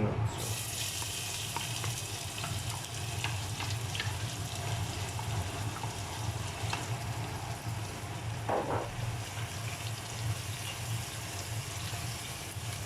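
Chopped onions sizzling in hot sunflower oil in a handi: the sizzle starts suddenly as the onions go in and keeps up steadily, over a steady low hum.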